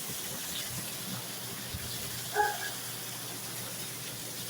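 Steady rush of wind and heavy rain in a severe storm, with a brief higher pitched sound about two and a half seconds in.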